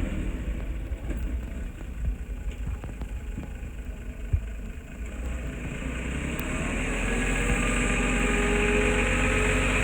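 Diesel engine of heavy earth-moving machinery running, easing off in the middle and then building up in speed and load from about six seconds in. A single sharp knock about four seconds in.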